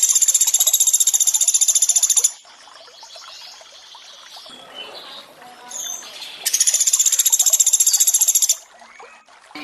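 Pelatuk beras (common flameback woodpecker) giving its rapid, high-pitched rattling trill twice, each burst about two seconds long, over a faint background of running water.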